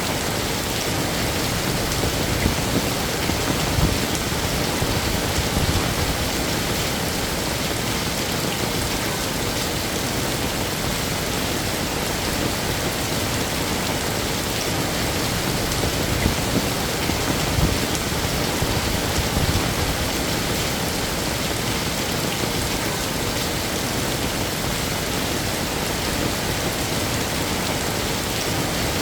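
Heavy rain falling and pattering on hard surfaces, a dense steady hiss with scattered louder drop hits.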